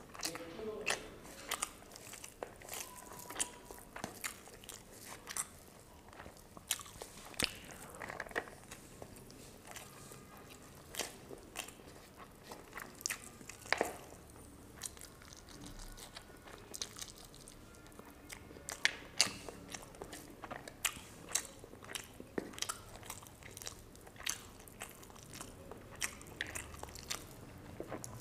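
Close-up chewing and crunching of fried fish and rice, with many sharp, irregular mouth clicks and smacks.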